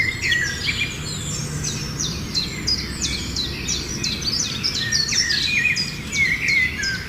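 Many small birds chirping together, a dense continuous chatter of short, high, quickly falling chirps overlapping one another, over a steady low background hum.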